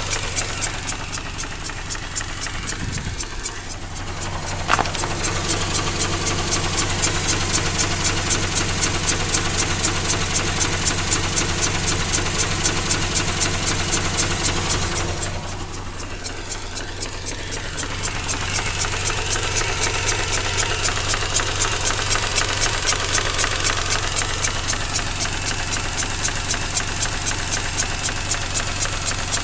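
Mazda RX-8's twin-rotor Renesis rotary engine idling roughly, with a pulsating air-suction sound and a ticking from the secondary shutter valve, about four pulses a second. The pulses come at a third of the idle speed, which the owner takes for a sign of a blown rotor side seal on one rotor face.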